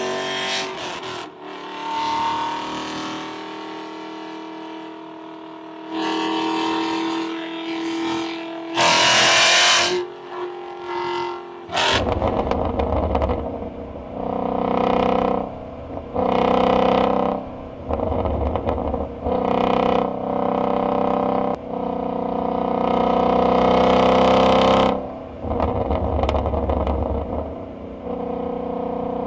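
High-performance car engines on the street: in the first part a car accelerates away with its engine note sweeping in pitch, with a couple of loud sudden exhaust blasts, then from about twelve seconds an engine is revved again and again in short held bursts with a deep rumble.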